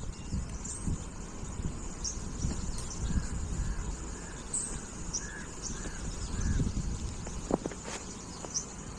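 Birds calling: a run of about seven quick, evenly spaced calls a little past the middle, with short high chirps scattered throughout, over a low rumble.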